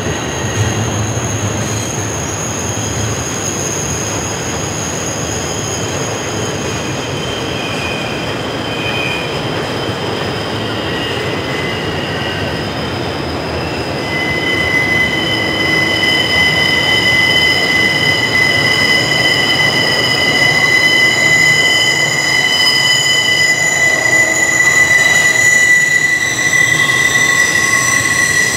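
Double-stack intermodal freight train rolling past on a sharp curve, its wheels squealing against the rails in several steady high-pitched tones over the rumble of the cars. The squeal gets louder about halfway through.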